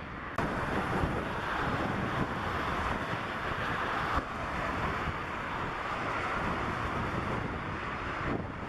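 Steady roar of a Boeing 747-400's jet engines, mixed with wind buffeting the microphone. The sound jumps louder abruptly about half a second in and drops slightly around four seconds in.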